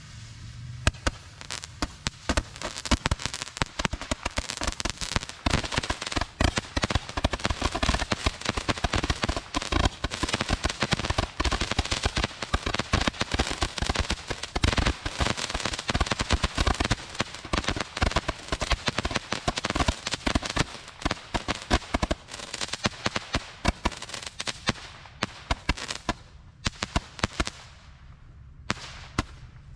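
Roman candles in a holder firing: a dense, rapid run of pops and crackles that thins out over the last few seconds and stops.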